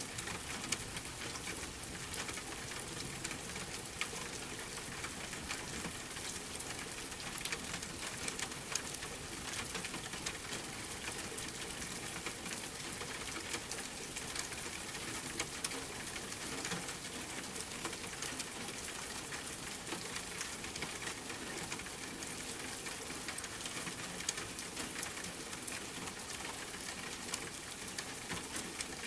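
Steady rain hissing, mixed with the scattered small pops and crackles of a wood fire in a fireplace.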